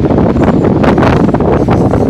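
Loaded double-stack intermodal freight cars rolling past close by: a loud, steady rumble of steel wheels on rail with quick rattles and clicks, and wind buffeting the microphone.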